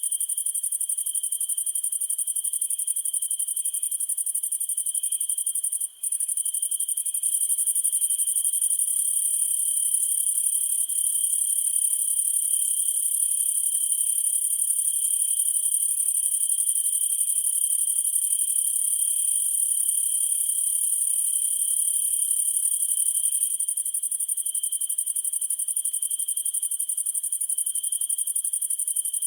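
A dense chorus of crickets and other night insects trilling without pause: a high continuous shrill, a lower steady trill, and a faint pulsed chirp about twice a second. The sound drops out for an instant about six seconds in.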